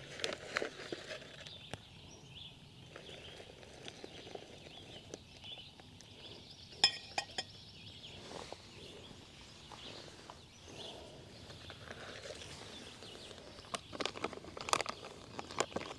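Camp cooking gear being handled: scattered clicks, knocks and rustling, with a sharp click about seven seconds in and a busier run of knocks near the end.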